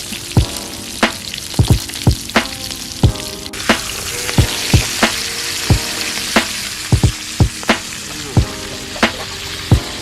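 Food frying in a pan, a steady sizzle. Sharp knocks come through it at an uneven pace, about one or two a second.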